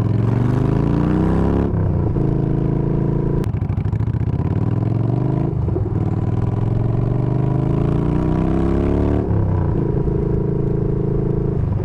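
Yamaha Bolt's air-cooled V-twin running through Bassani radial sweeper pipes with the baffles removed, pulling hard through the gears. The pitch climbs, drops at a gear change a little under two seconds in, climbs again for several seconds, and drops at another shift about nine seconds in.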